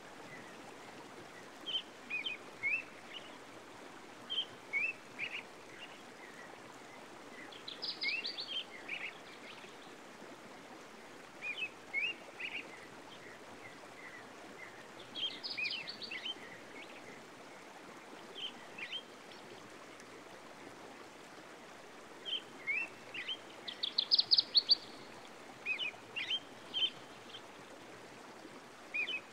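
Wild birds calling in a nature recording: short rising chirps every second or so, with a quick higher trill about every eight seconds, the loudest near the end, over a steady soft background hiss.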